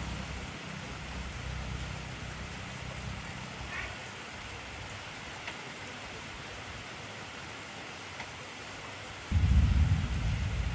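Steady heavy rain hissing, with a low rumble of thunder that fades out about four seconds in and a loud clap of thunder that breaks in suddenly about nine seconds in.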